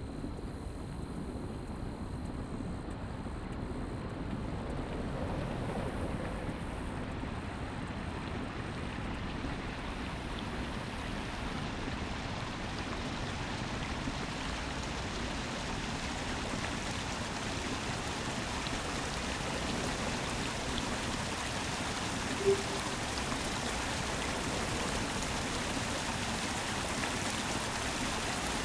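Steady wind rush buffeting the microphone over tyre and road noise from a bicycle ridden at speed. It grows a little hissier after about twelve seconds. A single short, sharp blip comes about three-quarters of the way through.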